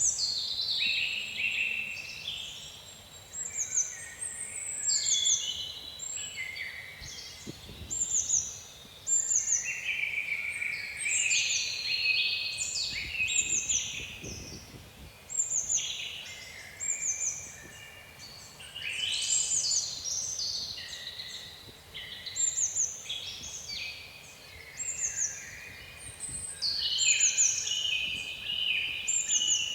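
Several songbirds singing together: short, high, downward-slurred notes repeat about once a second over busier, lower warbled phrases.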